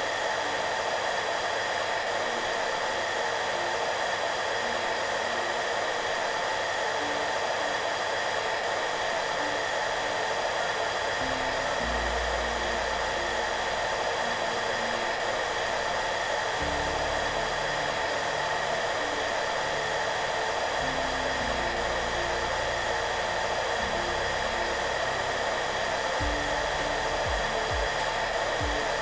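Hair dryer running steadily, a constant even blowing noise with no change in speed, mixed with soft background music whose low notes come in under it about a third of the way through.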